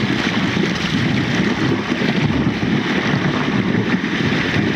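Whirlpool water churning in a steady rushing roar, with wind buffeting the microphone.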